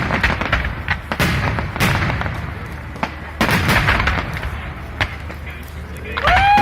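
Fireworks going off in a string of sharp bangs and cracks over a steady rumble, with a firework whistle rising and falling near the end.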